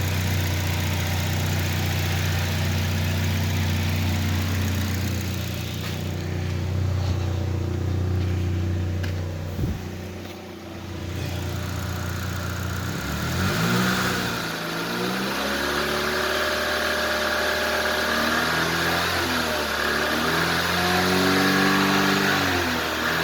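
2008 Chevrolet HHR's four-cylinder engine running on a test: it idles steadily for about ten seconds, then is revved up and let back down several times in the second half.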